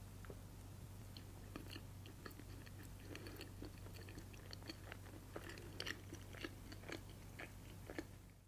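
Close-miked chewing of a soft brioche egg salad sandwich (tamago sando): irregular moist clicks and crackles that grow busier about three seconds in, over a low steady hum.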